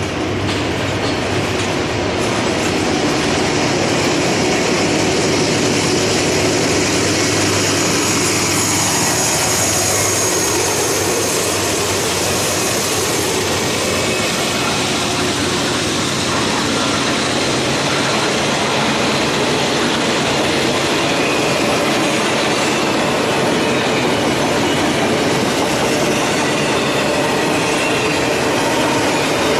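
Double-stack intermodal freight train rolling past close by: a loud, steady rumble and rattle of wheels on rail with clickety-clack. A thin, high wheel squeal rises over it around a third of the way in.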